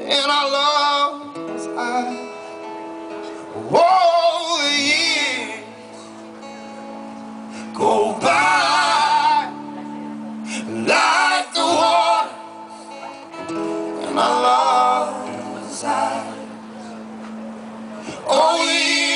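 Live band music: male and female voices singing phrases a few seconds apart over held guitar chords.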